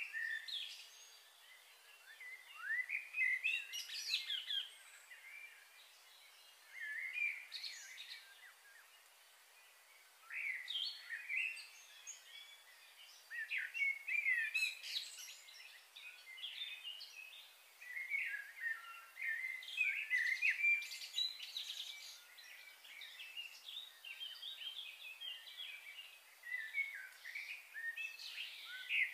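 Small songbirds chirping and calling in bursts of quick overlapping notes every few seconds, over a faint steady hiss of outdoor background noise.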